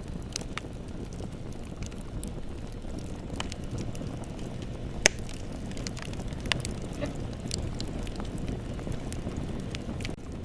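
Bonfire burning with a steady low rumble of flames and scattered sharp crackles and pops of burning wood, one loud pop about halfway through.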